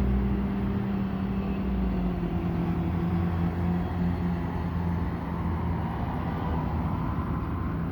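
Truck engine running steadily, its pitch dipping slightly about four seconds in.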